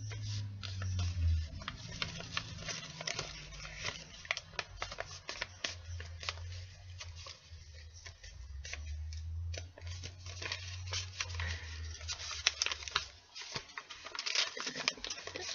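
Sheet of paper being handled and folded for origami, rustling and crinkling with many small irregular crackles as the creases are pressed, over a low rumble.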